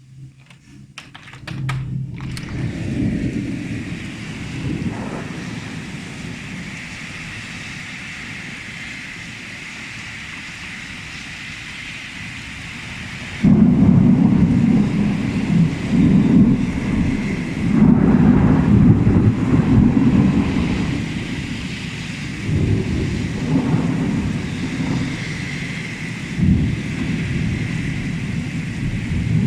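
Heavy rain hissing steadily under a deep, uneven rumble that swells and fades. About halfway through everything becomes suddenly much louder.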